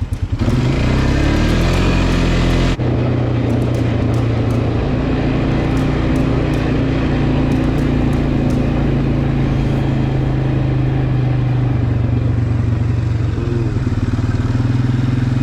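Small off-road vehicle engine pulling away: its pitch rises over the first couple of seconds, then it runs steadily at cruising speed, with a brief dip and recovery in pitch near the end.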